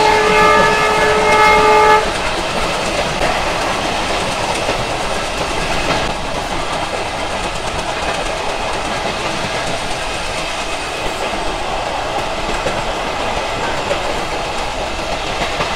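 Train horn sounding one held chord of several tones that cuts off about two seconds in. After it, the steady running rattle and rumble of the moving passenger train, heard from on board with wind blowing.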